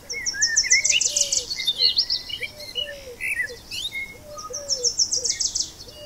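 Wild birdsong: a bird sings a rapid series of very high, thin notes twice, about four seconds apart, among scattered chirps from other birds, with a low repeated call underneath.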